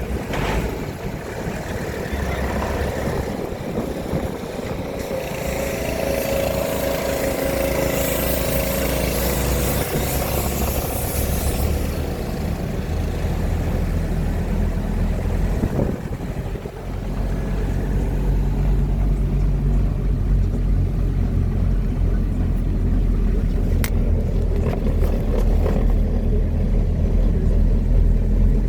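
A car being driven: a steady low engine hum with road noise, growing louder and heavier about two-thirds of the way through.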